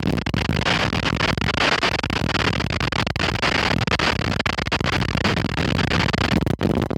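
Strong wind buffeting the microphone: a loud, continuous rumbling roar with crackling distortion.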